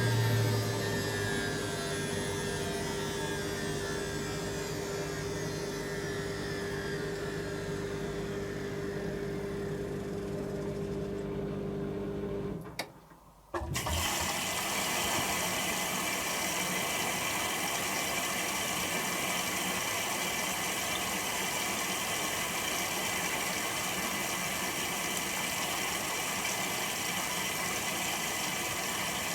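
Candy Aquamatic 100F washing machine's drum coasting down from its 600 rpm intermediate spin, a whine falling in pitch over a steady hum. About thirteen seconds in it stops and goes almost silent for a moment. Then water starts rushing in for the first rinse, a steady hiss.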